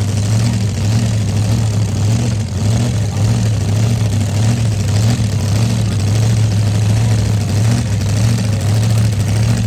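Large engine running loud and steady at an unchanging pitch, a deep drone that swells and eases slightly without revving up or down.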